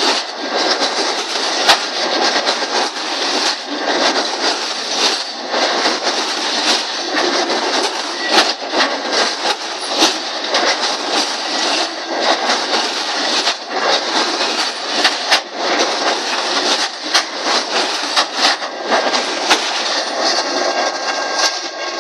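Enclosed autorack car-carrier railcars rolling past at speed: a continuous rush of steel wheels on rail, broken by sharp clicks and knocks as the wheels cross rail joints. A thin steady whine joins in near the end.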